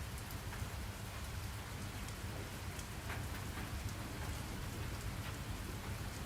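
Steady rain falling and pattering on a surface, with a low rumble underneath.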